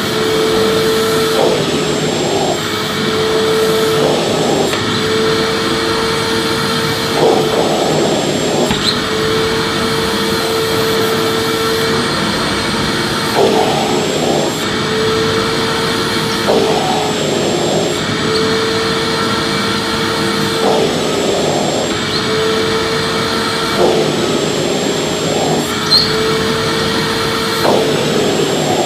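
Vacuum cleaner running continuously: a steady motor whine and rush of air, with a brief wavering in the tone every few seconds.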